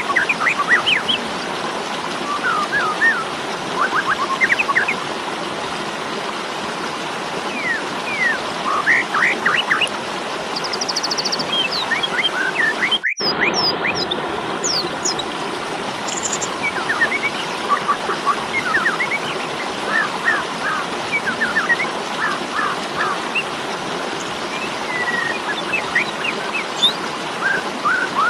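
Jalak suren (Asian pied starling) giving its fighting call: clusters of short, quick, sweeping chattering notes over a steady background hiss. There is a brief dropout near the middle.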